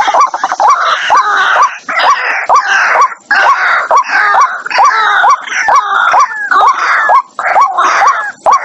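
White-breasted waterhen calling: a continuous run of harsh, grunting croaks laced with short, repeated hooked notes.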